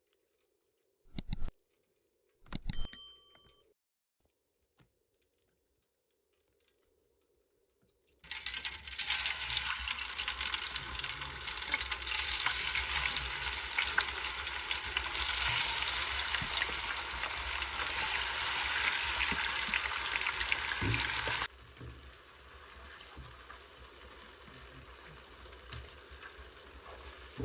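Trout sizzling loudly as it fries, a steady hiss with fine crackles that cuts off abruptly and leaves a much quieter hiss. Before it, a single metallic clink that rings briefly.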